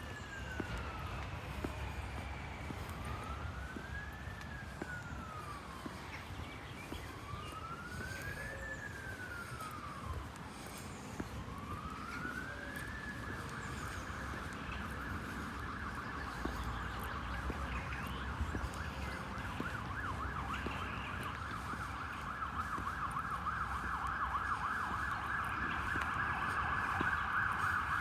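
Emergency vehicle siren: a slow wail rising and falling about every four seconds, switching about thirteen seconds in to a fast warble that grows louder toward the end. Low traffic noise underneath.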